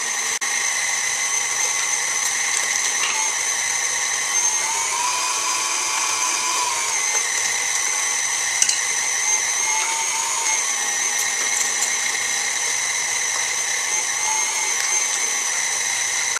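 KitchenAid stand mixer running at speed 4 with its food grinder attachment, grinding fresh cranberries: a steady high motor whine that wavers slightly in pitch a few times, with a single click a little past halfway.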